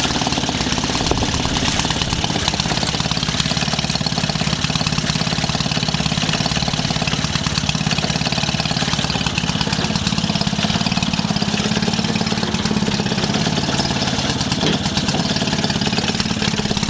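1946 Maytag 72D twin-cylinder two-stroke engine running steadily under load, belt-driving a washing machine. It is running at about 1100 rpm, well below its proper speed, and is getting hot.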